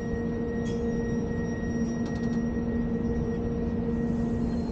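Glacier Express train running: a steady rumble with a constant low hum and a few faint clicks.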